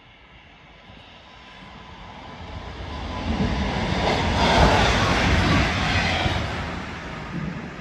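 A train passing through the station at speed. Its rushing noise builds over about three seconds, peaks around the middle, then falls away.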